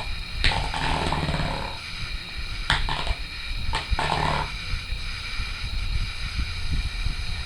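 A pet animal lets out three angry vocal outbursts, a long one about half a second in and two shorter ones near three and four seconds, over the steady hum of an electric fan.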